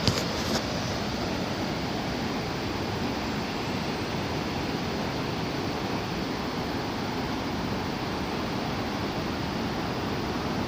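Steady rushing noise of wind and ocean surf from far below, with two brief clicks about half a second apart at the start.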